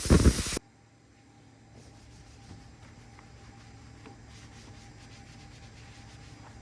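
A loud spray hiss, most likely water or degreaser spraying onto the engine bay, cuts off suddenly about half a second in. It is followed by faint, steady rubbing with a low hum underneath.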